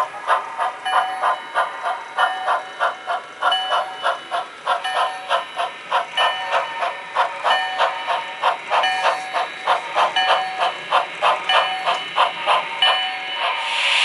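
Sound-equipped HO scale model steam locomotive playing rhythmic exhaust chuffs, about three a second, as it works cars. Near the end comes a short burst of steam hiss.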